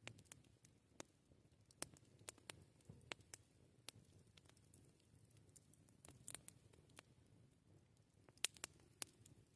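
Wood campfire crackling: irregular sharp pops and snaps, several a second, over a faint low background, with the loudest pop about eight and a half seconds in.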